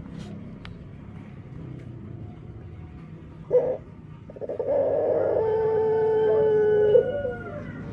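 Puter dove calling: a short note about three and a half seconds in, then one long, steady, drawn-out coo lasting about two and a half seconds that ends in a brief flick. The call is unlike other doves', which the keeper wonders might be a defect.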